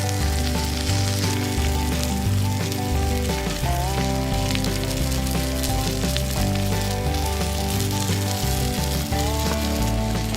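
Food sizzling and crackling on a barbecue grill over a fire, under background music with held notes and a stepping bass line.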